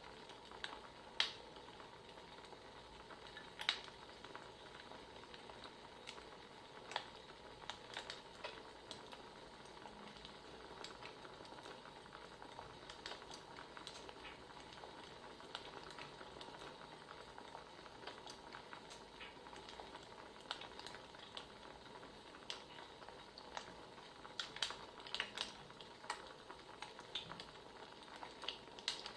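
Wood fire crackling: irregular sharp pops and snaps over a soft steady hiss, with a denser run of pops near the end.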